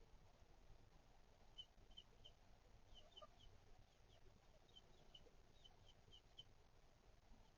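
Faint, short, high peeps of chicks, scattered at one to three a second from about one and a half seconds in, over near silence.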